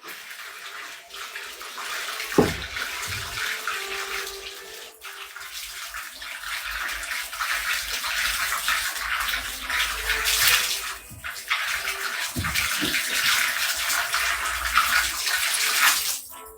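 Water running and splashing steadily, with a couple of short falling tones.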